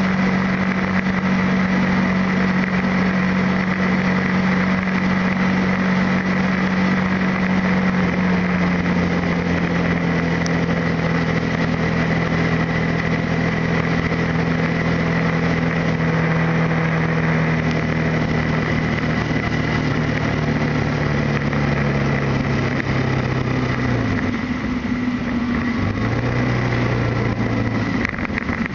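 Motorcycle engine running under way over wind and road noise. Its pitch holds steady at first, then falls slowly as the bike slows, drops away, and rises again briefly near the end.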